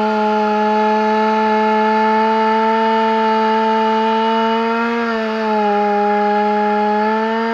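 Chainsaw running at steady full throttle, cutting into a beech trunk. It holds one high pitch, sags slightly about five seconds in, and picks back up near the end.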